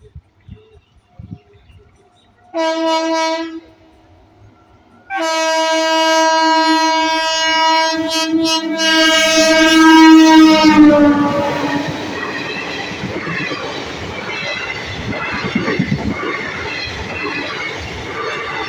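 Indian Railways electric locomotive's horn: one short blast, then a long blast of about six seconds that drops slightly in pitch as the locomotive passes. Then the passenger coaches roll past with a loud, steady rumble and rattle of wheels on the rails.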